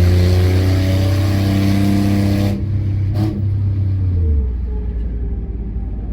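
Car engine accelerating with a loud exhaust, its note climbing slowly. About two and a half seconds in the rushing high part of the sound drops away suddenly, and a couple of seconds later the engine note falls as it eases off.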